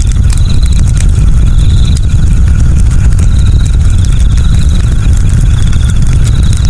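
Campfire burning, with scattered sharp crackles over a loud, steady low rumble. A high trill, typical of night insects, comes and goes in repeated bursts about a second long.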